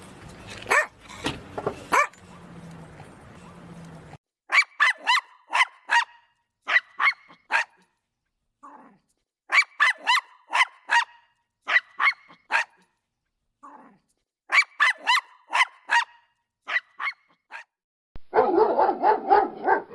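Small dog barking in quick bursts of three to six sharp, high-pitched barks, with short pauses between the bursts. Near the end a lower, denser sound starts.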